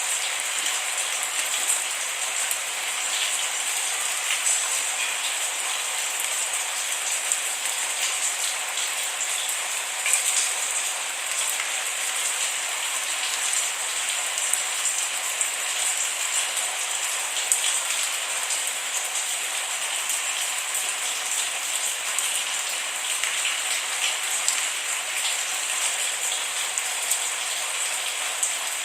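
Steady rain falling without thunder, an even hiss with many small drop ticks scattered through it.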